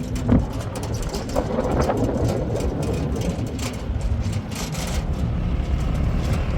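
A motor vehicle's engine running steadily, with scattered clicks and knocks over it.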